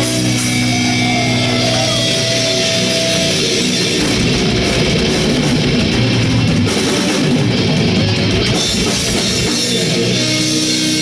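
Live band playing heavy rock with electric guitar and drum kit. Held guitar notes ring for the first few seconds, then the playing turns denser and busier from about four seconds in.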